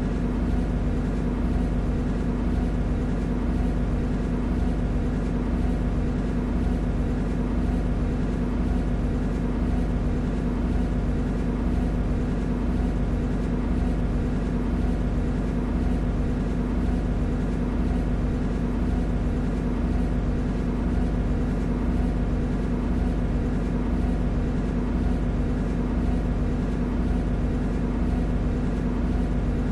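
MTR C-Train electric multiple unit running at a steady speed, heard from inside the car: a continuous low rumble of wheels on rail with a steady hum from the traction equipment.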